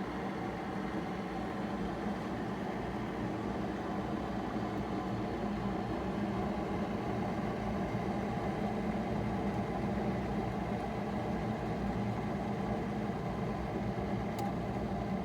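Steady mechanical hum, like a small motor or pump running, with a faint tick near the end.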